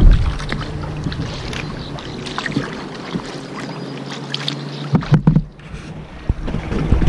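Kayak paddle strokes dipping and splashing in river water, with a few louder thumps, the loudest about five seconds in. A steady low hum runs under the splashing for the first five seconds or so.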